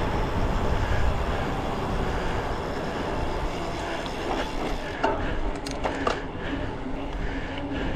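Wind buffeting a bicycle-mounted action camera, with tyre and road rumble from riding. About five to six seconds in come a few sharp clicks and rattles.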